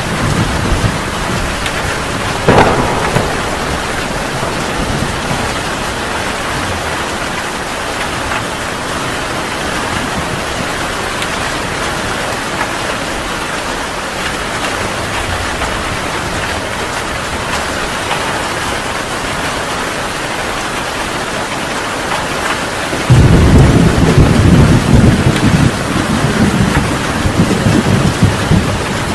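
Heavy rain falling steadily in a thunderstorm. A sharp crack of thunder comes a couple of seconds in, and near the end a loud, low rumble of thunder starts suddenly and rolls on.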